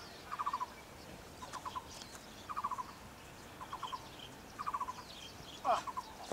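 A bird calling: short, rapid trills of four or five notes, repeated about once a second. Near the end there is one louder call that sweeps downward.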